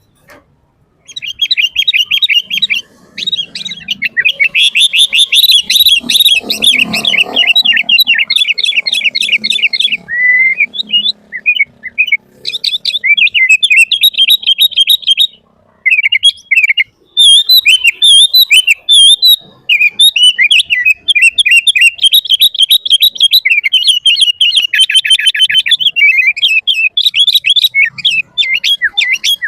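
Sooty-headed bulbul singing a long, rapid chattering song of quick whistled notes that begins about a second in, with brief pauses near the middle.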